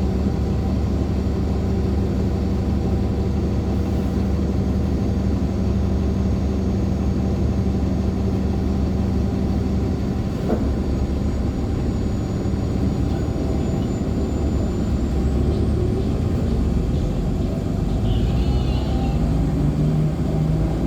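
Heard from inside an articulated NOVA Bus LFSA hybrid bus under way: its Cummins ISL9 diesel runs with a steady low drone. A thin high whine, the bus's turbo noise, comes in about ten seconds in and climbs higher a few seconds later, and a brief high squeal sounds near the end.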